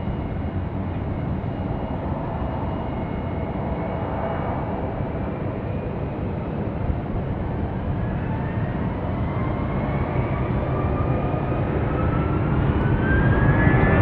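Jet airliner engines: a steady rumble with a whine that rises in pitch and grows louder over the second half.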